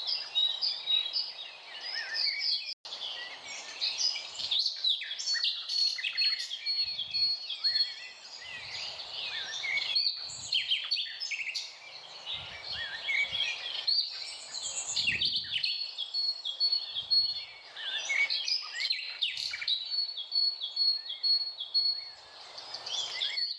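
Several birds chirping and calling at once, many short overlapping chirps and trills, with a high, thin pulsing note repeating over them. The sound briefly cuts out about three seconds in.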